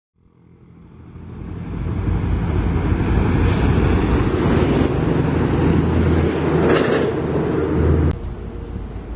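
Heavy-equipment diesel engine running loud and steady. It fades in over the first two seconds and drops off sharply near the end, with two brief hissing flares along the way.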